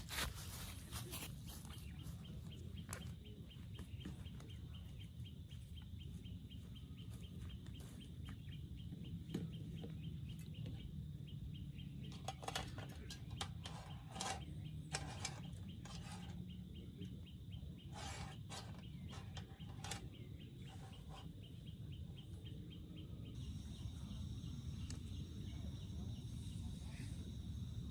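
Low steady wind rumble with scattered sharp taps and clicks, thickest in the middle stretch.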